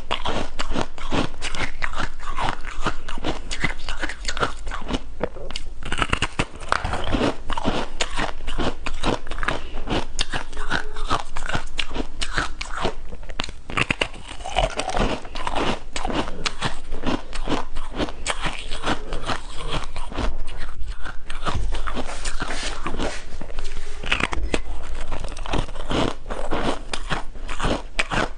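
Close-up crunching and chewing of shaved ice, a dense run of sharp crackles without a break.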